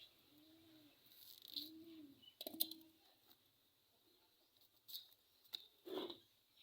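Faint, scattered clicks and knocks of handling, with a dove cooing softly twice in the first two seconds.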